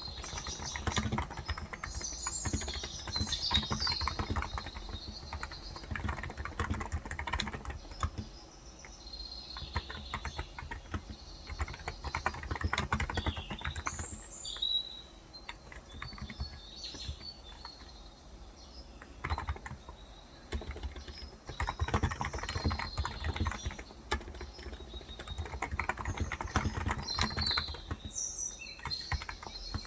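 Typing on a Cox Endeavor tenkeyless keyboard with 35 g electro-capacitive (contactless) switches, the keystrokes coming in runs broken by pauses of a few seconds. Small birds chirp in the background, most clearly near the start, around the middle and near the end.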